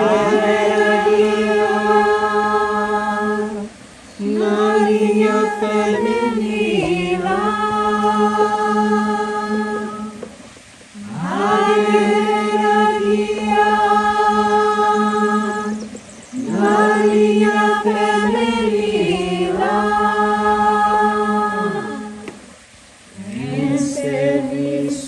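Slow ceremonial chant sung in long held notes. Phrases last a few seconds each, with short pauses for breath between them and a few slides between pitches.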